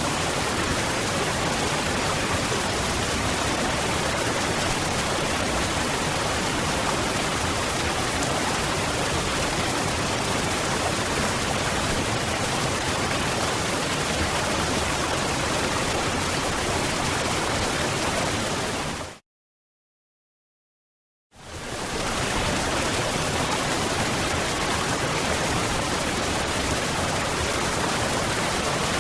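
Waterfall: a steady, even rush of falling water. About two-thirds of the way through it fades out to complete silence for about two seconds, then fades back in.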